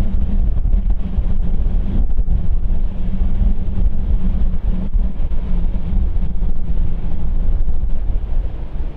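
Wind buffeting the microphone, heavy and gusty throughout, over a low steady hum that fades out about two-thirds of the way in.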